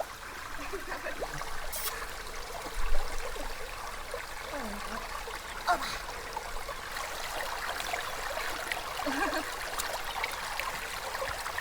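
Water running and trickling over stones in a shallow stream, with a sharp thump about three seconds in and a lighter one near six seconds.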